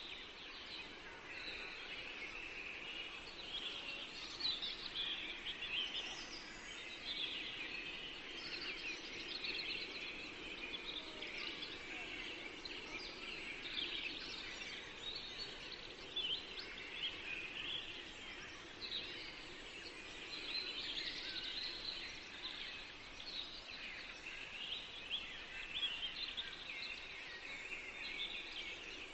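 Forest dawn-chorus style birdsong: many songbirds singing at once, overlapping chirps and trills, over a faint steady background hiss.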